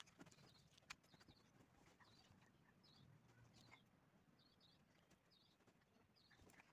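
Near silence, with faint high bird chirps repeating through it and two light taps about a second apart near the start.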